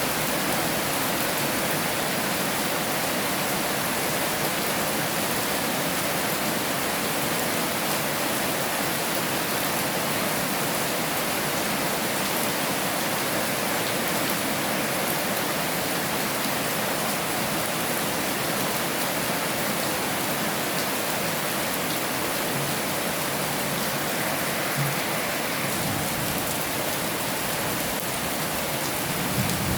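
Heavy rain falling steadily, a dense even hiss of drops. A few faint low knocks come late on.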